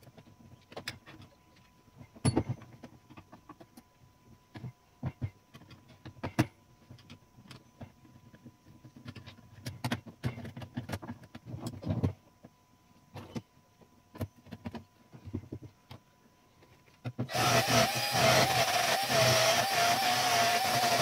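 Small metal clicks and taps as typewriter parts are handled and fitted back onto the machine. About 17 seconds in, a loud steady whirring with a wavering whine suddenly starts and keeps going.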